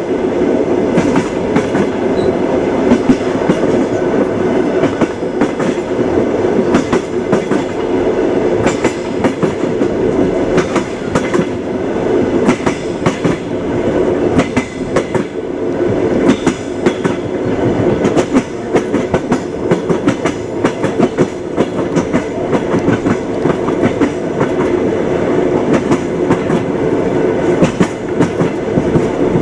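Moving passenger train: a steady rumble of the railway carriage with the wheels clacking repeatedly over the rail joints.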